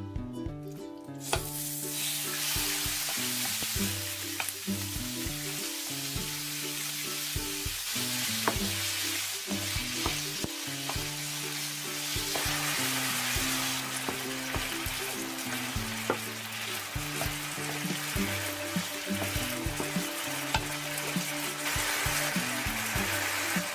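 Diced raw chicken breast sizzling as it hits hot oil in a nonstick frying pan on full heat, the sizzle starting about a second in and going on steadily, with scattered clicks from a wooden spoon stirring the pieces. Background music plays underneath.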